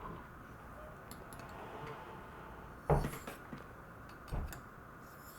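Steel knife blade clinking against a Spyderco ultrafine ceramic sharpening stone during sharpening: a few light ticks, then a sharp knock just under three seconds in and a smaller one about a second and a half later.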